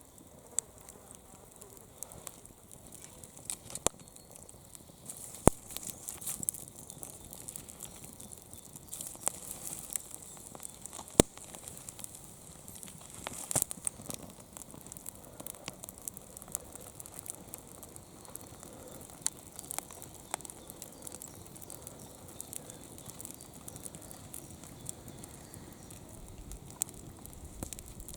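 Wood campfire burning, crackling with irregular sharp pops, a few of them louder snaps.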